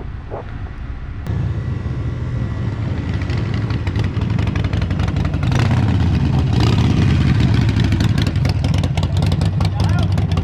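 A vehicle engine comes in suddenly about a second in and runs, growing louder around the middle.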